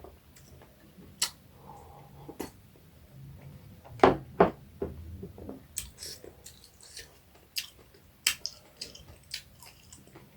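A person eating close to the microphone: chewing and wet mouth clicks scattered irregularly, with two louder knocks about four seconds in.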